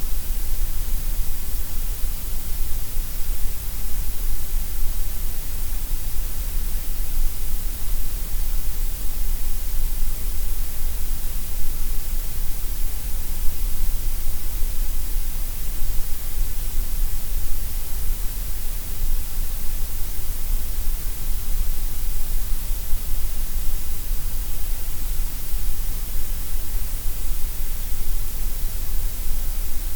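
Synthetic gray noise: a steady, even hiss spread across all pitches, with no change or events.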